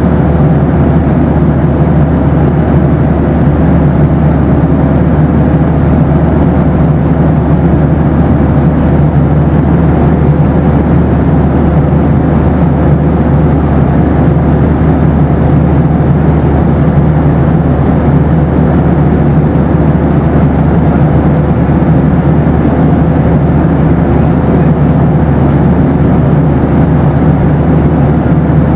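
Boeing 737 airliner cabin noise: a loud, steady rumble of engines and rushing air, with a faint steady whine running through it.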